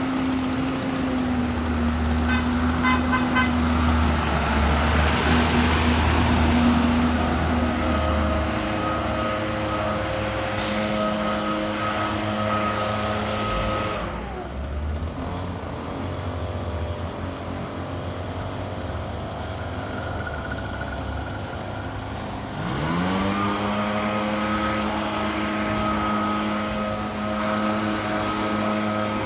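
A 2003 Blue Bird International 3800 diesel school bus drives past, its engine and tyres loudest several seconds in, then fading into steady road traffic. Near the end another engine revs up from idle and settles into a steady run.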